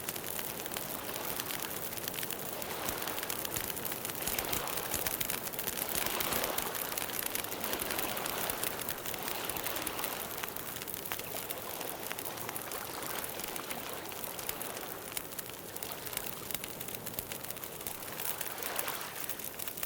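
Campfire crackling and popping steadily, a dense run of small snaps over a soft hiss of burning wood, swelling a little now and then.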